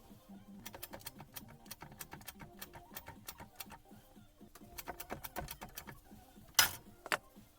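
Small tools and hammer parts being handled on a workbench: a run of quick light clicks and taps, then a louder metallic knock near the end and a smaller one just after.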